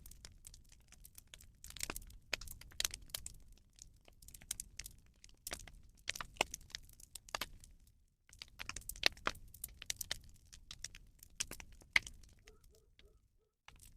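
Rubbish fire crackling, with a dense run of irregular sharp pops and snaps.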